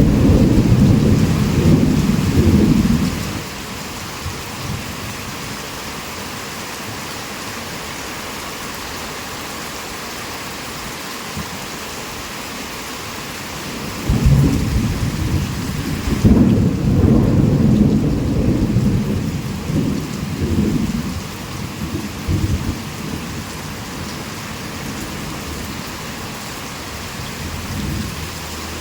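Heavy rain falling steadily throughout, with a low rumble of thunder dying away about three seconds in. About halfway through a second thunderclap breaks and rolls on for around eight seconds before fading back under the rain.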